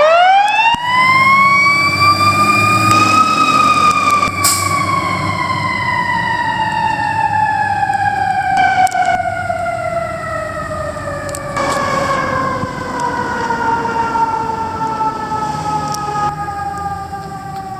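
Fire apparatus siren winding up fast to a high pitch, then sliding slowly and steadily down over the following seconds, over a low engine rumble.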